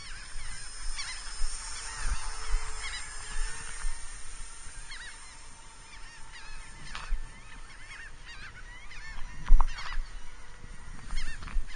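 Twin electric motors and propellers of a Dynam Sky Bus C-47 RC plane whining in flight, the pitch dipping and rising again as it passes, with repeated short honking calls over it.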